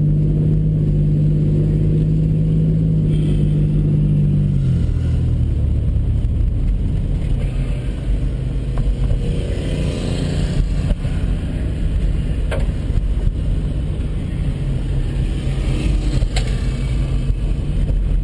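Mustang drag cars' engines, one a turbocharged 4.0 L V6, held at steady revs on the start line for about four and a half seconds, then a rougher low engine rumble as they launch and run.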